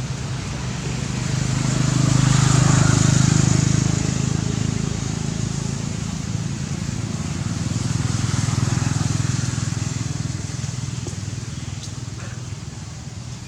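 Engine hum of a motor vehicle going by, swelling to its loudest about two to four seconds in, swelling again around eight to nine seconds, then fading.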